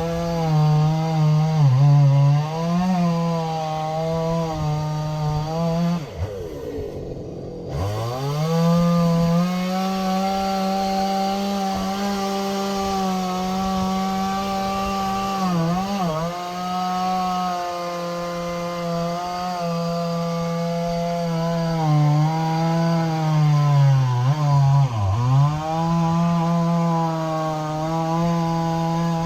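Two-stroke chainsaw running at high revs, its pitch sagging briefly each time it bites into wood. About six seconds in, the saw drops to idle, then revs back up to speed.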